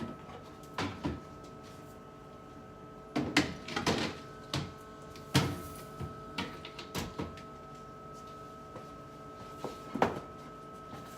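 Containers and food items being set down and shifted on refrigerator shelves: a series of irregular clunks and knocks, bunched in a few flurries with pauses between, over a steady hum.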